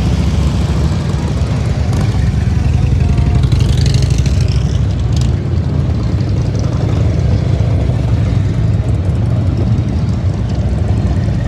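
Motorcycle engines running steadily, most of the sound low in pitch.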